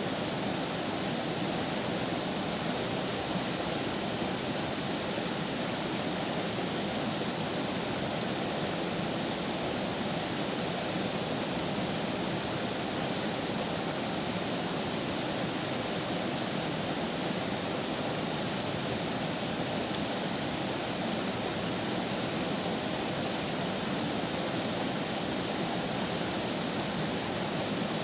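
River water flowing, a steady even rush with no changes.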